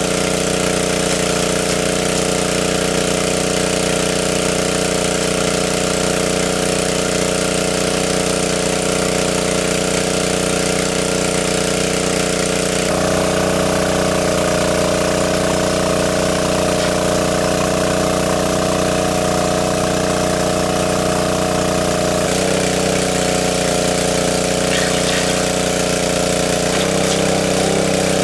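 A small engine running steadily, with slight shifts in its tone about halfway through and again near the end.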